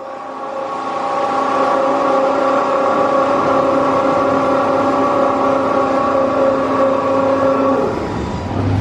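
Car wash machinery in an idle D&S Odyssey bay running after switching on by itself: a steady motor whine with several pitched tones, building up over the first second and dying away near the end.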